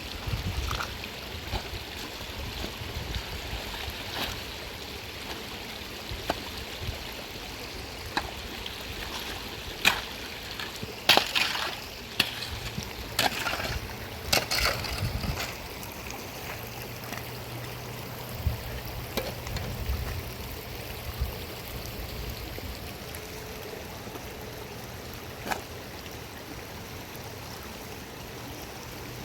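Running stream water, a steady rush, with a cluster of sharp knocks and scrapes about ten to fifteen seconds in and a few single knocks elsewhere.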